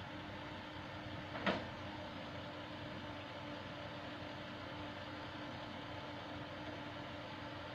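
Komatsu PC70 tracked excavator's diesel engine running steadily, with one sharp clank about one and a half seconds in.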